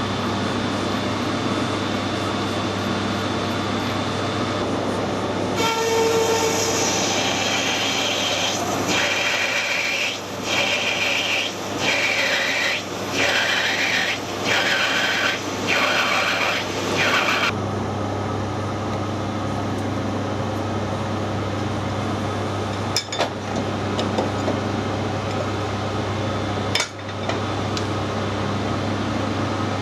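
Metal lathe running with a steady hum. For about twelve seconds in the middle, a harsh cutting or rubbing noise from a tool on the brass workpiece swells and drops roughly once a second. Two sharp clicks follow later.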